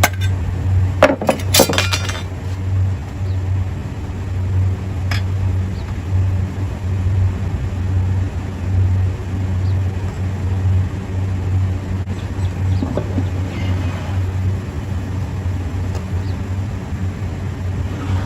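Metal compressor parts clinking against one another as they are handled, with a cluster of ringing clinks about a second in and a few lighter clicks later, over a steady low hum.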